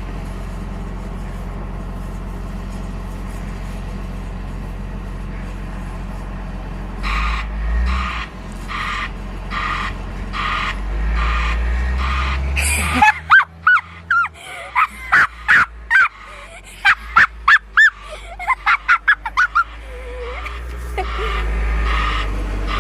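Heavy snow-clearing tractor running, its reversing alarm beeping at about two beeps a second. About halfway through the alarm turns into loud, stuttering, warbling chirps instead of even beeps, a faulty backup horn that should go 'ee, ee, ee'.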